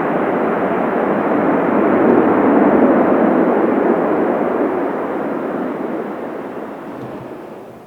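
Jet airliner's engines during landing, a loud rushing noise that swells to a peak about two to three seconds in and then fades away over the last few seconds.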